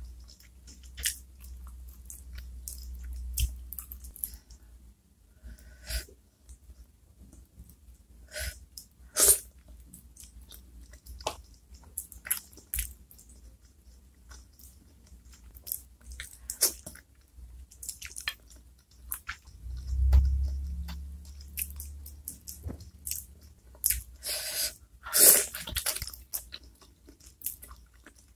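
Close-miked eating of chicken feet in chili sauce: wet chewing, lip smacks and small crunches of skin and cartilage, coming as irregular sharp clicks. A low bump sounds about twenty seconds in.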